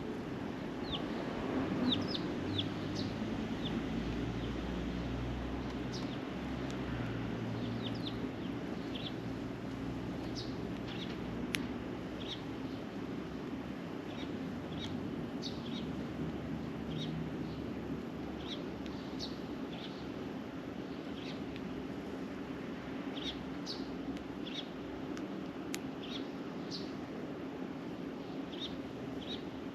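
Sparrows chirping: short high chirps come on and off throughout, over a steady low background hum. There is a sharp click twice.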